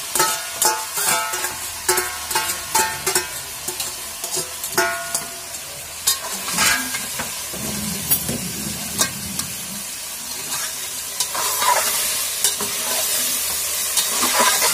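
Chicken pieces going into a pot of hot frying masala and sizzling, while a metal bowl and a slotted metal spatula scrape and clink against the metal pot as it is stirred. Sharp ringing clinks come thick and fast in the first few seconds, and the sizzle grows louder near the end.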